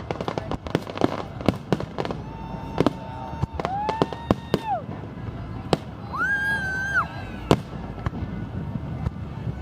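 Fireworks display: a rapid run of bangs and crackling bursts, with three held whistling tones in the middle of the run.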